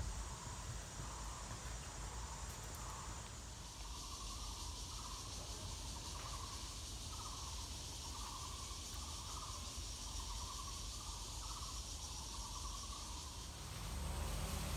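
Insects chirping in short repeated calls about once a second, with a high, steady insect buzz that comes in a few seconds in and cuts off near the end, over a low rumble.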